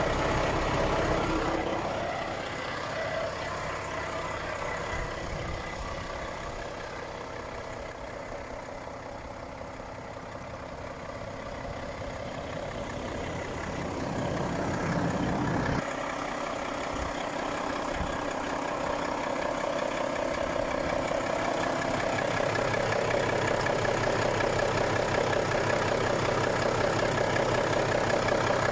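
Volvo FH 460 truck's 13-litre six-cylinder diesel engine idling steadily. It grows fainter, then louder again, with an abrupt change in tone about halfway through.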